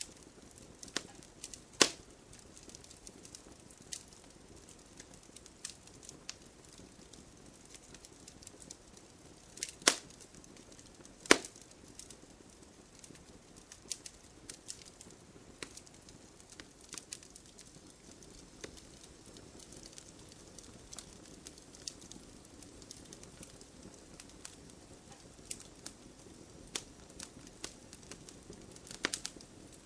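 Wood fire crackling in a fireplace: a low steady hiss with scattered small pops, and a few sharp loud cracks about 2, 10 and 11 seconds in and near the end.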